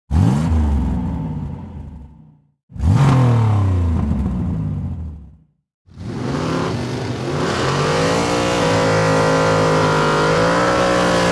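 Engine revving in three goes: two short revs, each dying away over a couple of seconds, then a longer rev that climbs and holds at a steady pitch.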